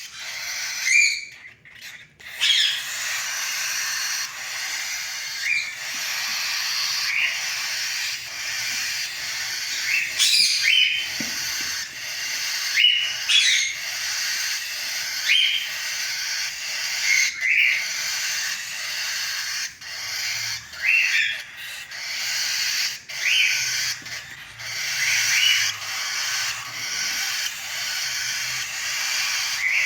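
Cockatiel chicks giving a continuous raspy, hissing cry, broken by short rising squeaky chirps every second or two, typical of chicks begging for food.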